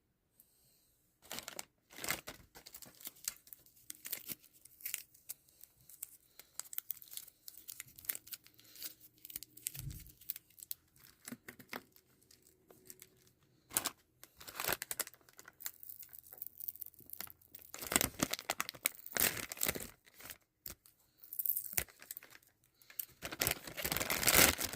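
Plastic packaging being torn and crumpled by hand into scrunched pieces for an ecobrick, an irregular run of crackles and rips. The crinkling grows louder in two stretches near the end.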